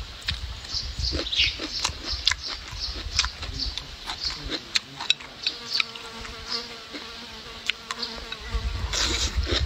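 Close-up wet chewing and mouth sounds from eating stir-fried pork and rice, with sharp clicks of wooden chopsticks against the bowl. A fly buzzes close to the microphone for about three seconds in the middle.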